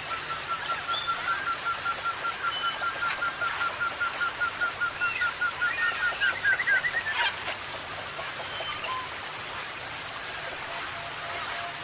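A bird calling a long series of short, evenly repeated notes, about four a second, which speed up and rise in pitch before stopping about seven seconds in. A few other faint bird calls follow over a steady background hiss.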